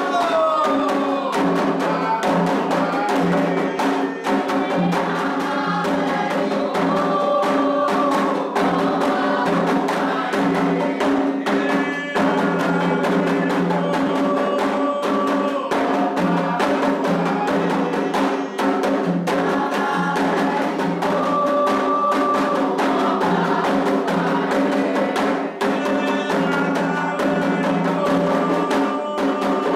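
Candomblé toque for Omolu: atabaque hand drums and a struck bell beat out a dense, driving rhythm while a chorus of voices sings over it.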